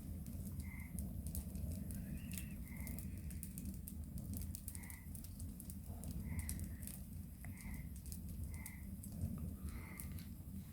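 Campfire crackling, with scattered sharp pops over a steady low rumble. An animal outdoors gives short, high calls, roughly one every second or so.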